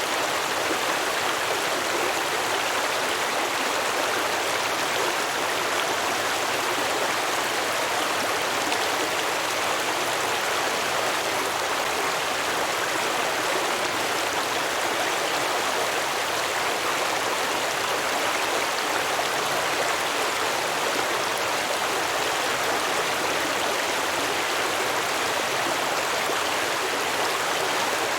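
Stream water flowing and babbling over rocks: a steady, even rush without breaks.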